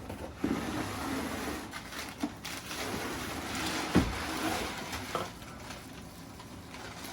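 A large cardboard box being opened and dug through: cardboard and packing rustling and scraping, with scattered small clicks and one sharp knock about four seconds in.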